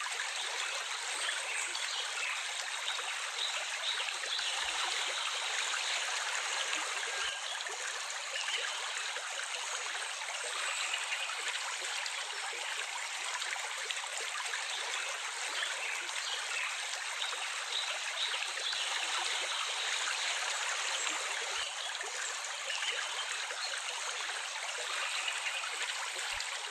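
Running water of a small stream flowing steadily, an even rushing trickle.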